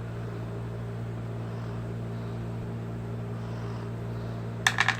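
Steady low mechanical hum with a constant drone, broken near the end by a quick cluster of sharp clicks.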